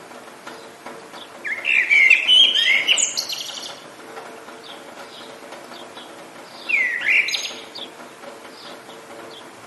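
Songbird singing two loud, quickly bending phrases, one about a second and a half in lasting about two seconds and a shorter one near seven seconds, with fainter short chirps from other birds between them. A light steady hiss of rain runs underneath.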